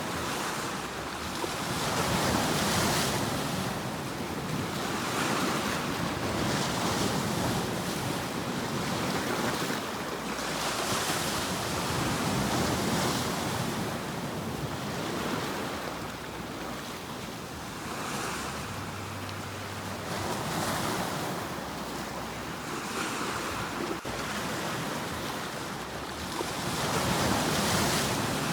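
Sea waves breaking and washing in, a steady surf that swells and falls back every few seconds.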